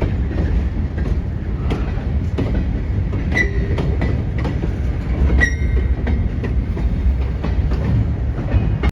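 Freight train rolling slowly over jointed track: a steady low rumble with wheels clicking and clanking over the rail joints. Brief high-pitched wheel squeals come twice, about a third and about halfway in.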